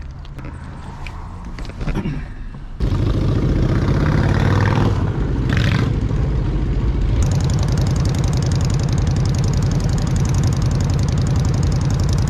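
A vehicle engine running loudly, with a rising rev about three seconds in after a sudden jump in level, then steady running; the sound changes abruptly again about seven seconds in.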